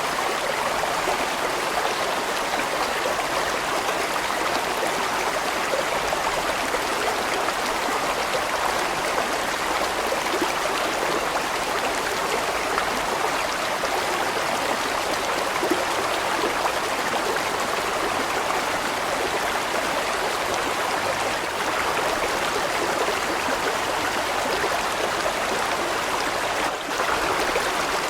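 Large stream flowing steadily, an even, unbroken sound of running water.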